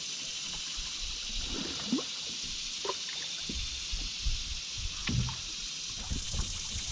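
Canoe paddling on a river: irregular small splashes, gurgles and drips from the paddle and hull, over a steady hiss of moving water.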